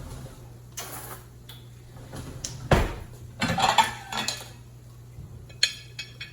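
Kitchen utensil clattering and clacking against a waffle maker and plate as a cooked zucchini waffle is lifted out: a few sharp clatters, the loudest a little under three seconds in and a cluster soon after, over a steady low hum.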